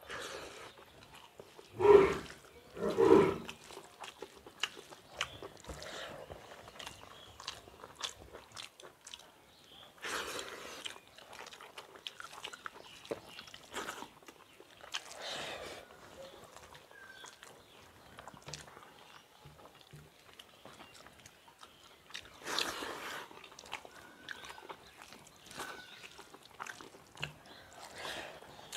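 Two people eating rice with fish curry by hand: wet chewing and lip-smacking, with fingers mixing rice on steel plates. Two loud short bursts come about two and three seconds in.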